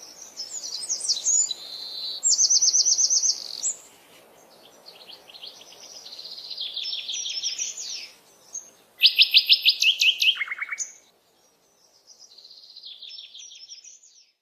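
A small songbird singing: phrases of rapid high trills and twittering with short pauses between them. The loudest is a fast trill about nine seconds in that ends on a lower trill.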